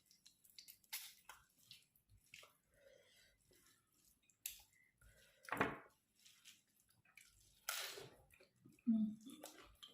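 Close-up eating sounds: wet chewing and lip smacks with small clicks. There are two louder slurp-like wet sounds, one about halfway through and one near the end.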